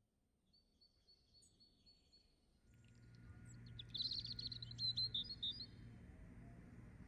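Birds chirping: a few thin, high peeps, then about four seconds in a quick, bright trill of chirps, over a low steady hum that comes in a little under three seconds in.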